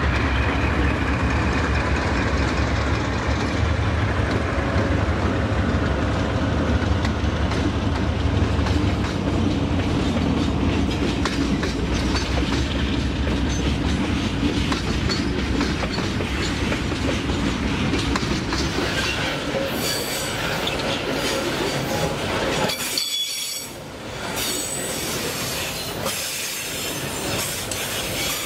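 A train running by on the rails: a steady rumble and rail noise, with rapid sharp clicks of the wheels over the track in the later part and a brief dip in level near the end.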